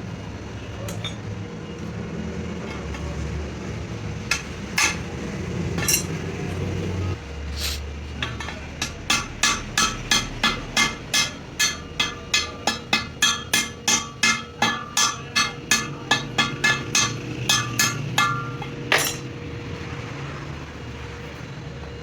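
Hammer striking steel in a steady run of ringing blows, about three a second, with a few single strikes before and after. A machine hums low underneath for the first several seconds.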